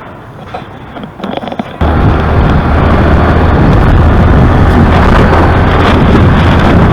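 Sound of riding on a motorbike: after about two seconds of quieter street noise, a loud, steady rumble of wind on the microphone and engine sets in abruptly.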